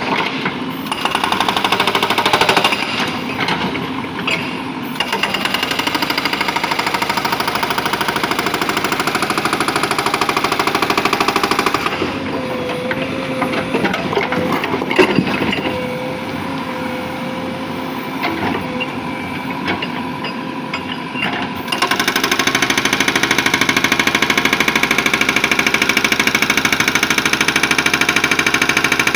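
Hydraulic rock breaker on a JCB 3DX Super backhoe loader hammering rapidly, with the machine's diesel engine running under load. The hammering is quieter for a stretch in the middle and grows louder again about two-thirds of the way through.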